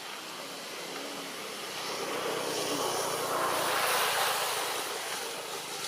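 A passing motor: a rushing engine noise that swells to a peak about four seconds in, then fades.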